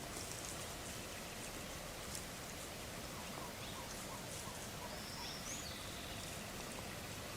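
Steady hiss of light rain with faint scattered drop ticks. A bird gives one short high call about five seconds in, after a few faint lower notes.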